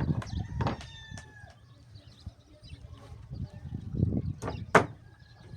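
Sharp knocks, like chopping or hammering blows: two close together near the start and two more about four and a half seconds in. Faint bird calls come in the quieter stretch between.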